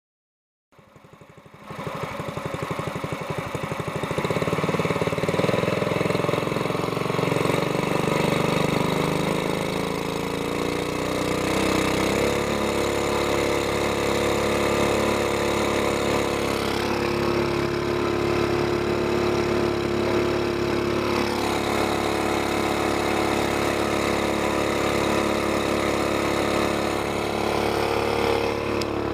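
Mud motor's GX200-type single-cylinder engine running through a short muffled exhaust pipe. It comes in about a second in, builds over the next few seconds, then runs steadily, and its note shifts about twelve seconds in.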